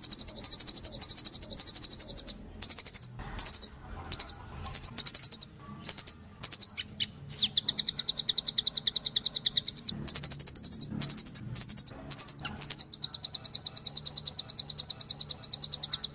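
Rambatan doraemon (a nuthatch) singing. It gives rapid, high trills of sharp repeated notes, about ten a second, in phrases of varying length separated by short pauses, with one note sweeping downward near the middle.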